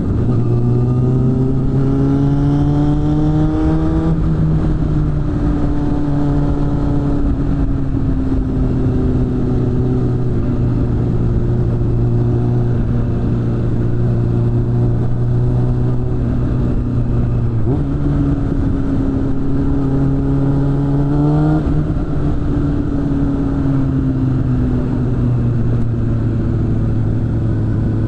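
Suzuki GSF600 Bandit's inline-four engine through a BOS aftermarket exhaust, riding under changing throttle: the revs climb, change pitch suddenly a few times, and sink slowly as the throttle is rolled off, over a steady low rumble.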